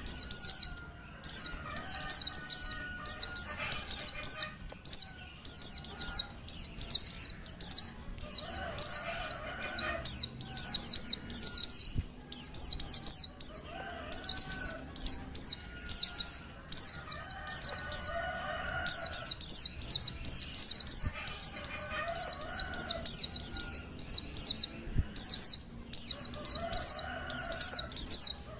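Female white-eye (pleci) calling: bursts of quick, high chirps, each sliding down in pitch, repeated about once a second with short pauses. It is the female's call that prompts male white-eyes to sing.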